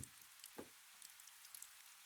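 Soft, faint rain: a steady light hiss with scattered small drop ticks, and two louder drips near the start, about half a second apart.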